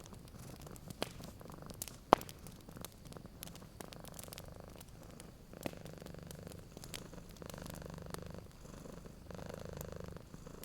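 Domestic cat purring steadily in long low cycles, with wood fire crackles popping now and then, the sharpest pop about two seconds in.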